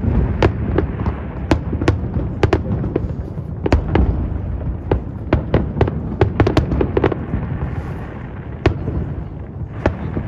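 Fireworks display: an irregular run of sharp bangs and cracks, several a second, over a steady low rumble, thinning to a single crack for a moment near the end.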